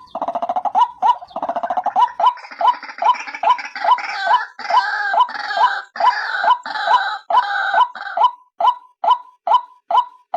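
White-breasted waterhen (ruak-ruak) calling, as used in a lure recording of the female's call. A short note repeats about two to three times a second, and through the middle a harsher, denser chattering joins it before the simple repeated notes return near the end.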